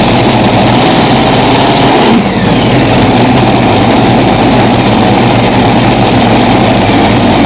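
Modified tractor-pulling tractor's engine running loud and steady, idling without revving.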